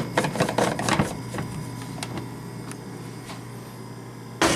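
Clicks and knocks of plastic coffee-maker parts being handled, the filter basket and carafe, with one louder knock near the end over a steady low hum.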